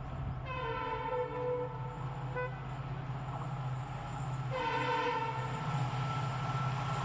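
Train horn sounding: a long blast, a short toot, then a second long blast, over a steady low engine drone.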